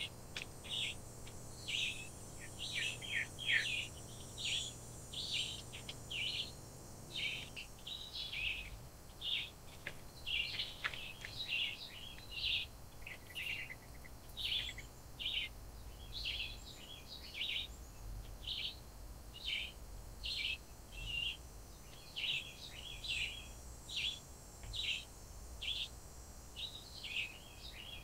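A bird calling with short chirps over and over, about two a second, in a steady rhythm with no break.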